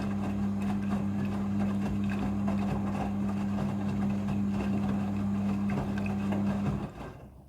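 Midea front-loading washing machine running during its rinse cycle with a steady hum, which stops a little before the end and fades away.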